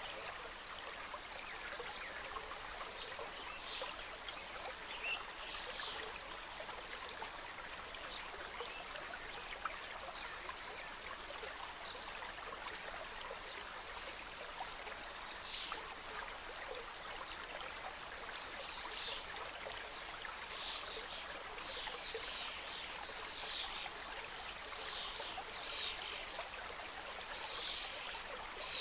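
Mountain stream cascading over rocks: a steady, even rush of flowing water, with short high splashes or chirps scattered through it, more of them in the second half.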